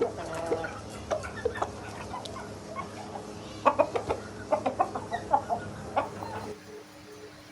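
Chickens clucking: a run of short calls, busiest around the middle, that thins out near the end.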